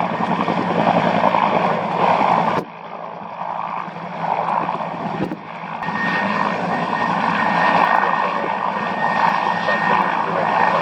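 Turbine aircraft engine noise from a military aircraft flying near the runway. The sound drops off abruptly about two and a half seconds in, then builds back up, with a steady high-pitched turbine whine from about six seconds in.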